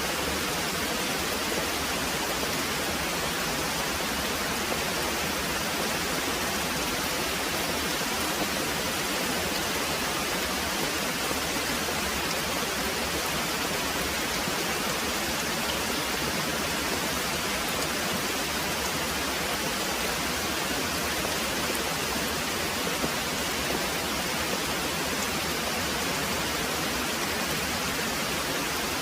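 Very heavy rain pouring steadily, an even, unbroken hiss with no thunder.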